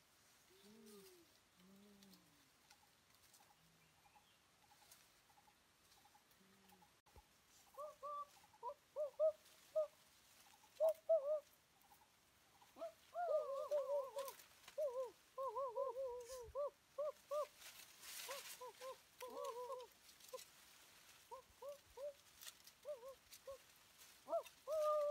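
A bird calling: a few soft, low, falling coos near the start, then, from about a third of the way in, runs of short quavering notes that come faster and louder toward the end.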